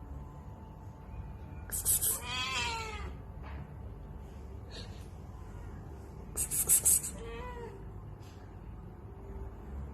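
A cat meowing twice, a longer bending meow about two seconds in and a shorter one about seven seconds in. Each meow comes just after a short, loud crackling noise.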